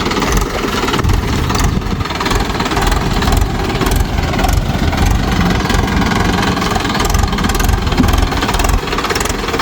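Mahindra 585 DI tractor's diesel engine running loudly and steadily.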